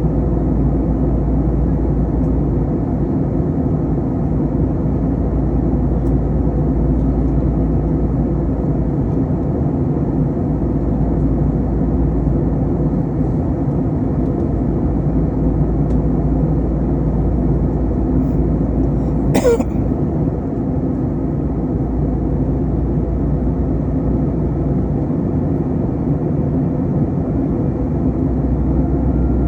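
Steady cabin noise of an Airbus A321 airliner in flight: engine and airflow rumble, even and low-pitched. A brief sound sweeps down in pitch about two-thirds of the way through.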